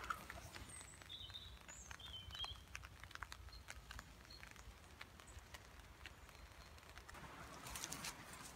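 Faint birdsong in woodland: a few short, high chirps and twitters, with light ticks and rustling, and a brief rustle near the end.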